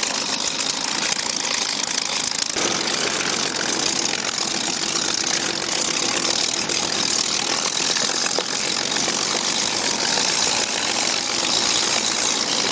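Propeller aircraft's piston engine running steadily.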